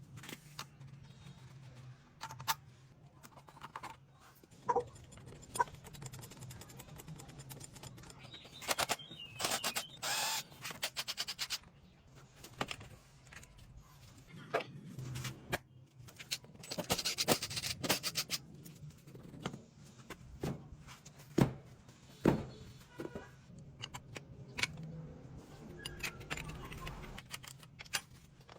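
Scattered clicks, clinks and rattles of small tools and metal parts being handled, with two longer rasping bursts about nine and seventeen seconds in.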